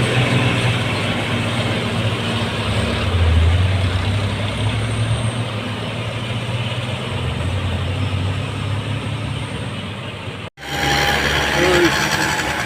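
Diesel truck engines labouring up a steep grade: a steady low drone with road noise. The sound cuts out for an instant about ten and a half seconds in, then an engine carries on.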